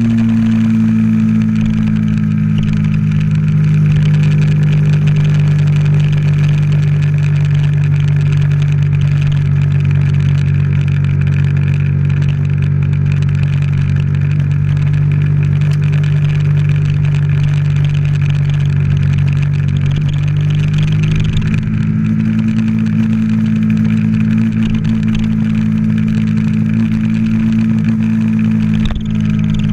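Bajaj Pulsar's single-cylinder engine running at a steady cruise under way, with wind noise over it. The engine note rises slightly about twenty seconds in and dips briefly near the end.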